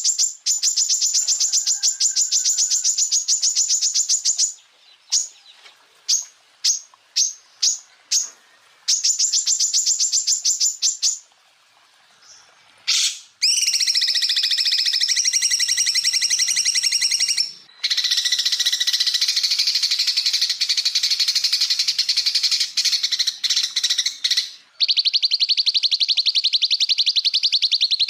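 Recorded song of a greater green leafbird (cucak ijo): long, rapid trills of sharp repeated notes, broken by a string of single notes and a short pause partway through, then denser, lower trills.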